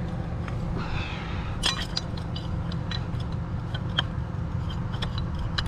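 Scattered light metal clinks and clicks of pliers working parts loose from a piece of scrap metal, over a steady low rumble.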